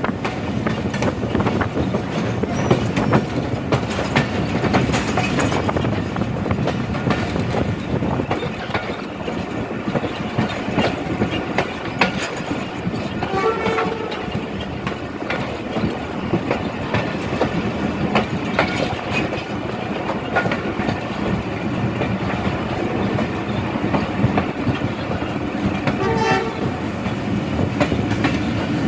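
Passenger train rolling through a station, its wheels rumbling and clacking over the rail joints. Two short toots of the train's horn sound about halfway through and again near the end.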